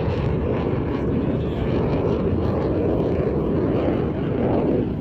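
Loud, steady jet noise from Blue Angels F/A-18 Super Hornets flying over, swelling slightly near the end.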